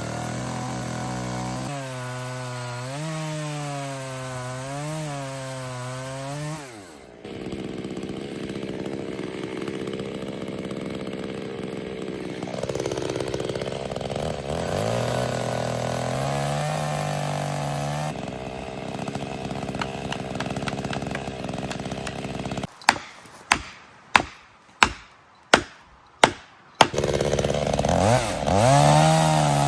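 Chainsaw running and cutting wood, its engine note rising and falling as it is revved and eased. Near the end come about six sharp separate knocks, then the saw runs again.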